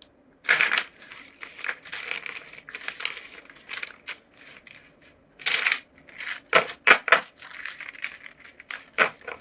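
A pen or marker scratching across paper in a series of quick, irregular strokes, with louder strokes about half a second in and again around the middle.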